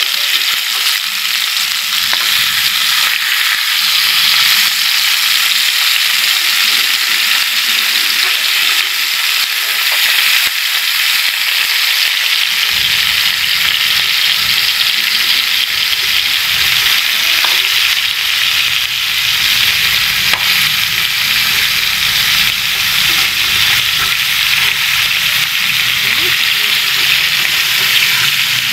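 Minced-pork-stuffed tomatoes frying in hot oil in a pan, a steady sizzle. The heat is kept moderate so the meat filling cooks through inside.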